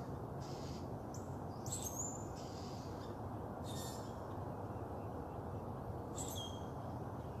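Backyard birds calling at dawn: short high chirps and calls about a second in, near the middle and again near the end, over a steady low background hum.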